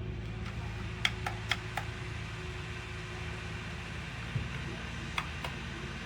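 Brightown 450 W plug-in wall space heater running with a steady fan hum, with a few light clicks about a second in and two more near the end.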